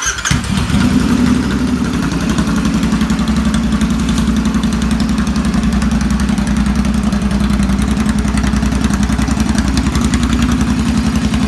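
Royal Enfield Interceptor 650's parallel-twin engine idling steadily with its exhaust removed, firing straight out of the open exhaust ports.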